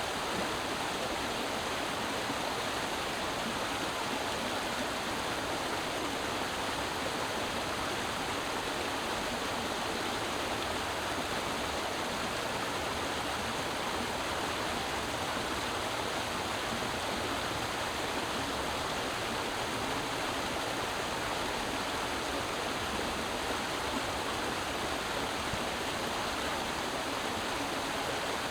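Creek water running over rocks: a steady, even rushing and babbling.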